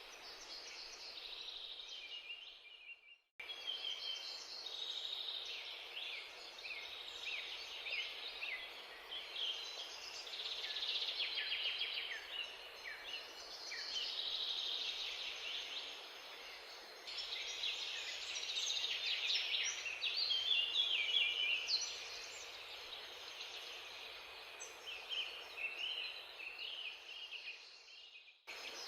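Many small birds chirping over a steady background hiss. The sound drops out briefly about three seconds in and again near the end.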